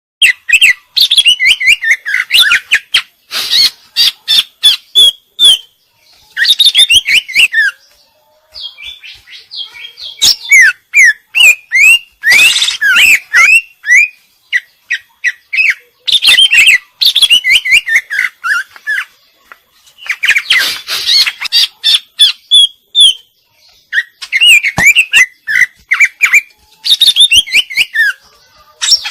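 Female green leafbird (cucak ijo) singing loudly in bouts of a few seconds: rapid whistles, chirps and harsher notes, a varied song full of mimicked phrases, with short pauses between bouts.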